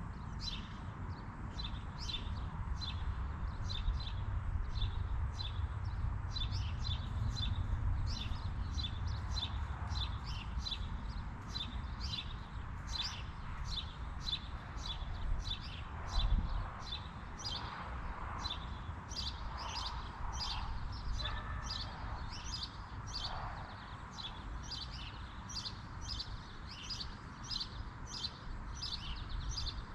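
A bird chirping over and over, about two short chirps a second, over a steady low rumble.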